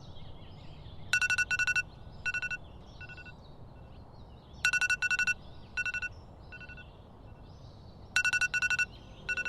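Electronic alarm beeping in repeated groups about every three and a half seconds, each group a run of rapid pulsed beeps that gets fainter, with birds chirping faintly in the background.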